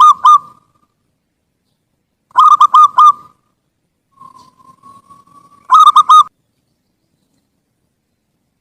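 Zebra dove (perkutut) singing its loud cooing song: short phrases of quick hooked coos about three seconds apart. The first phrase is ending as the sound begins. The last phrase is led in by a soft drawn-out note.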